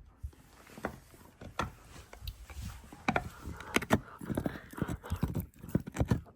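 Two Akitas playing: paws and claws clattering and thumping irregularly on the floor, busier from about halfway through.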